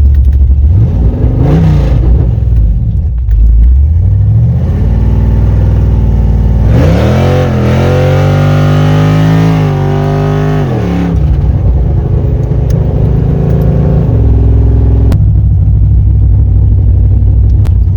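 A performance V8 engine idling loudly and being revved: a couple of quick blips in the first few seconds, then a longer rev held for about four seconds before dropping back to idle.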